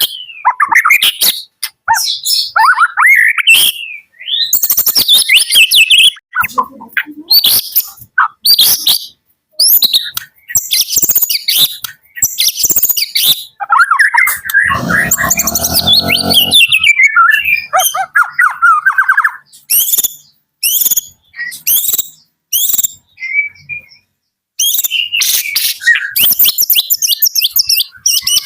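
A white-rumped shama (murai batu) singing: loud bursts of quick high chirps and sweeping whistled phrases, separated by short pauses, with a longer, rougher passage about halfway through.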